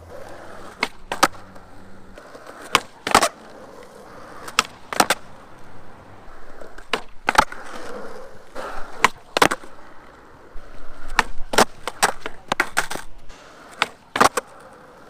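Skateboard on flat ground: wheels rolling with a steady hiss, broken by many sharp cracks and slaps of the tail popping, the board landing and hitting the ground during flip tricks.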